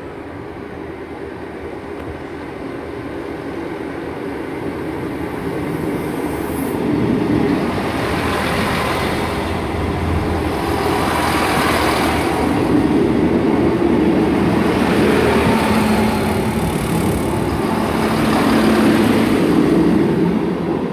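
A pair of Class 158 diesel multiple units running past close by, the underfloor diesel engines and wheels on the rails growing louder over the first several seconds as the train nears, then staying loud with a few surges as the cars go by.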